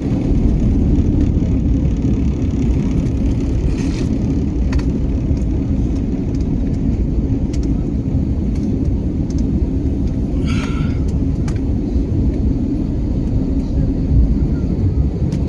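Steady airliner cabin noise on approach before landing: a constant rumble with a steady hum. There are a few faint clicks and a brief higher sound about ten seconds in.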